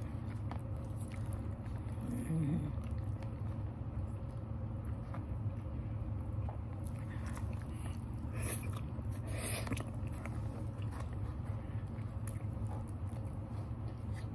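Close-miked chewing of salad, with two brief crisp crunches a little past the middle as a forkful of lettuce is bitten, over a steady low hum.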